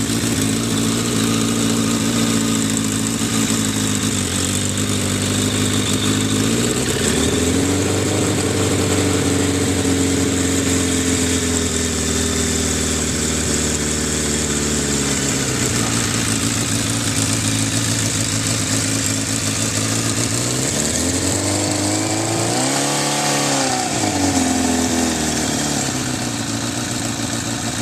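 Suzuki motorcycle engine running on its first start after a tune-up of valve adjustment and carburetor O-ring replacement. It idles steadily, is revved up about seven seconds in and held at higher revs for several seconds before dropping back, then revved once more and let fall about three-quarters of the way through.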